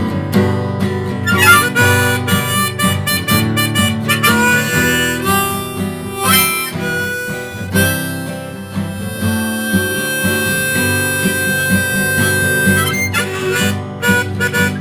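Instrumental music: a harmonica playing a melody with long held and bending notes over a strummed acoustic guitar, in a blues-folk style.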